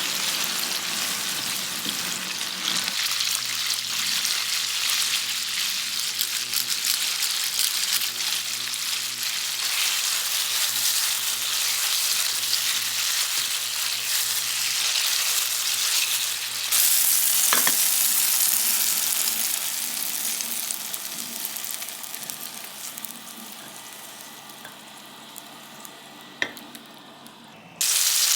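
Food sizzling as it fries in a pan. About 17 seconds in it changes to a brighter, louder sizzle that slowly dies down over the next ten seconds.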